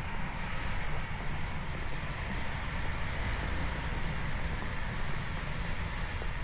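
Steady rumble and hiss of a passing vehicle at a distance, with the hiss easing off near the end.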